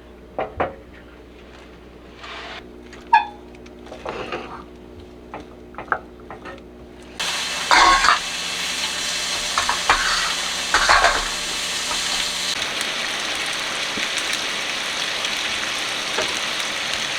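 A few knocks and clinks of utensils, then food sizzling in a hot pan, starting suddenly about seven seconds in and continuing as a steady hiss.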